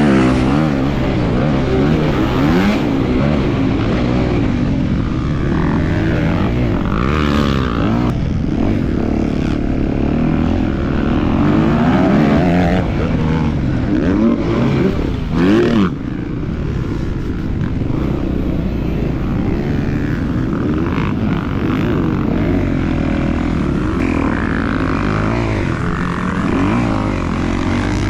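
250cc motocross bike engine running hard, revving up and down continuously with the throttle and gear changes.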